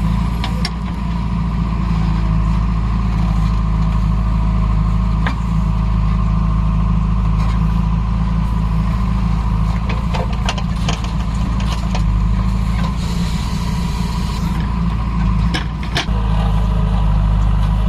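Heavy diesel engines of a JCB 3DX backhoe loader and a loaded tractor running steadily under a towing load, with a few sharp clanks now and then.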